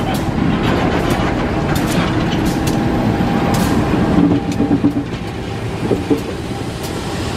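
CC 201 diesel-electric locomotive and its tank wagons rolling slowly past close by: a steady low rumble with scattered clicks from the wheels on the rails. The locomotive's diesel engine hum comes in strongly about four seconds in, as the locomotive draws level.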